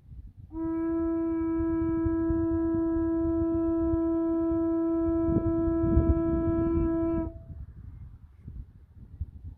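A watering can blown like a horn, sounding one long, steady, mournful note for about seven seconds. It starts about half a second in and stops sharply, over a low rumble.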